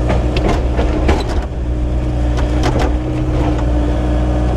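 Small engine idling steadily, with a handful of sharp knocks over it: about half a second in, around a second in, and near three seconds in.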